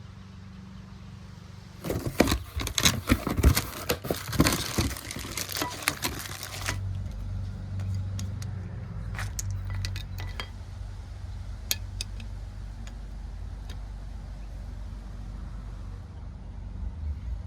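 Metal hand tools clinking and rattling for about five seconds over a steady low hum, then a few scattered sharp clicks.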